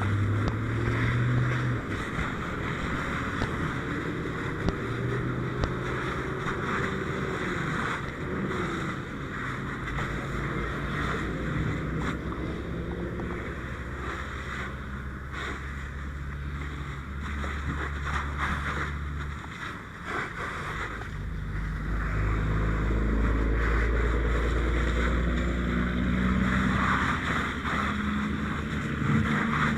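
Fire hose stream spraying water in a steady hiss, over the low running of an engine whose pitch shifts a few times, with a heavier rumble from about twenty seconds in.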